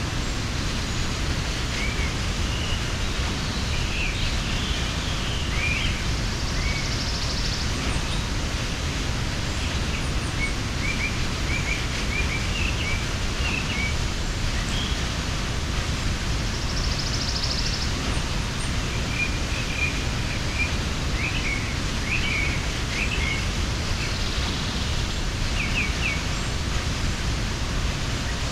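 Mountain waterfall giving a steady, even rush of falling water. Small birds chirp over it at intervals, short quick calls scattered through.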